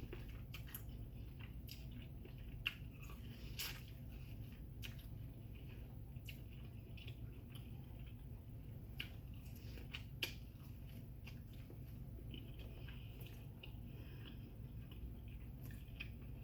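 Close-miked chewing and biting of seafood boil food: soft, wet, squishy mouth sounds with scattered short clicks.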